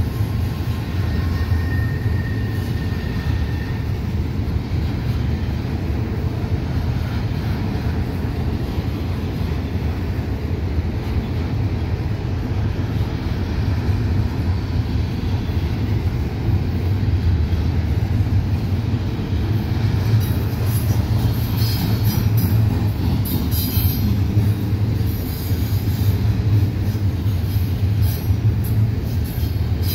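Double-stack intermodal freight train rolling past: a steady low rumble of loaded container cars and steel wheels on the rail. From about two-thirds of the way through, high-pitched wheel squeal flickers in over it, the flanges grinding through the curve.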